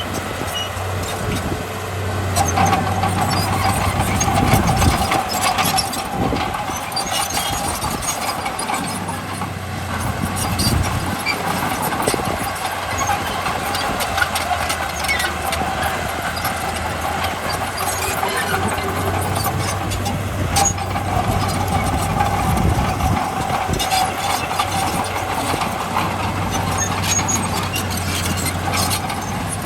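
Diesel engine of heavy earthmoving machinery running steadily, with a steady whine and scattered clanks and knocks.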